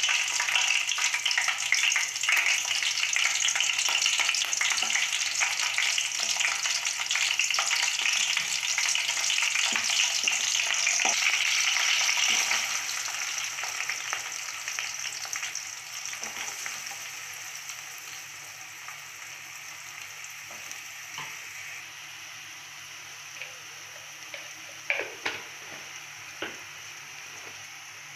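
Green chillies sizzling in hot oil in an aluminium kadai, a loud, steady frying hiss that settles to a softer sizzle about halfway through, once chopped onion is in the pan. Near the end a spatula knocks a few times against the pan as it stirs.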